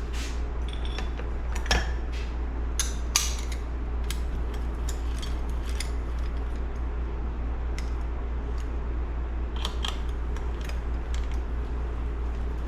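Scattered small metallic clicks and taps of hand tools and screws on engine parts during bench assembly, a few sharper knocks about two to three seconds in and a cluster near the end, over a steady low hum.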